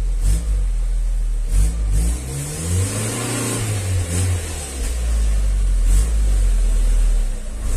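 Volkswagen estate's engine running at low revs as the car reverses slowly, its pitch rising and falling a little and swelling about halfway through, with a few short knocks.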